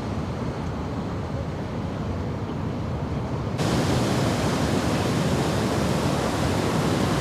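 Steady rush of ocean surf and wind. It is muffled at first, then turns suddenly brighter and louder about halfway through.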